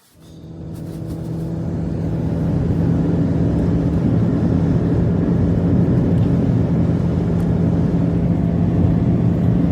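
A motor or engine running steadily at a constant pitch, swelling up over the first couple of seconds.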